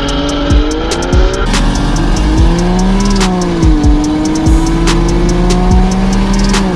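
Tuned BMW 340i's turbocharged straight-six accelerating hard through the gears, its pitch climbing and dropping at gear changes about one and a half and three seconds in, then climbing slowly again. Electronic music with a steady kick-drum beat plays over it.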